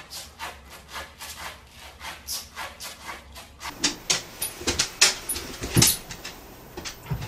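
A golden retriever standing against a wall and pawing at it, making quick rasping strokes about three a second. A dog then noses at a plastic swing-lid bin on a tiled floor, with several sharper knocks and clatters.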